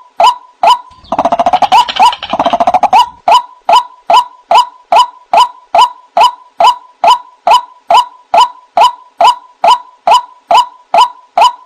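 White-breasted waterhen call from a lure recording: a loud, monotonous short note repeated a little over twice a second, broken about a second in by a fast chattering burst lasting about two seconds.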